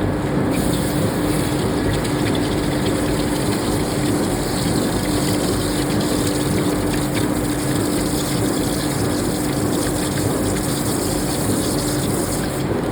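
Steady industrial machinery noise on a forging shop floor, a dense unbroken rush with a constant hum and a few faint ticks.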